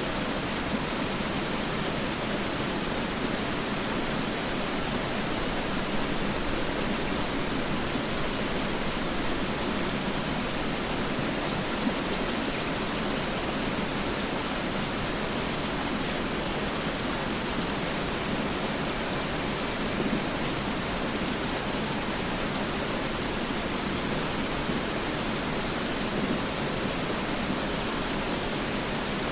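Mountain river rushing steadily, an even hiss of flowing water with no breaks.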